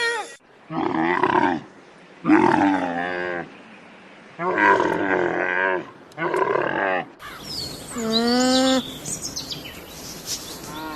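An animal gives four rough calls, each about a second long, with short gaps between them. The sound then cuts to a cow mooing once, a steady low call about a second long.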